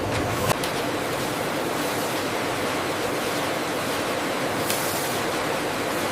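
Steady rushing noise of factory machinery running, with a single click about half a second in and a short sharp noise near the end.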